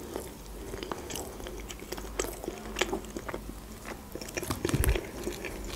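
A person chewing a mouthful of potato wedges close to the microphone, with scattered small mouth clicks and a soft low thump about five seconds in.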